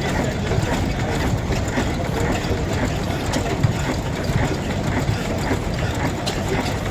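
An engine running steadily at idle, with a light mechanical clatter.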